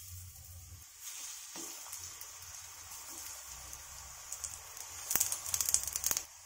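Besan-batter-coated brinjal slices sizzling and crackling in shallow hot oil as they are laid into a frying pan one after another. There is a sharp tap about five seconds in, followed by a louder stretch of sizzle.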